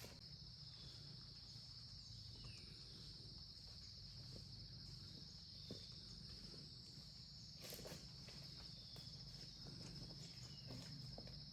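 Faint, steady high-pitched trilling of insects, with a low rumble under it and a few soft knocks, one near eight seconds in.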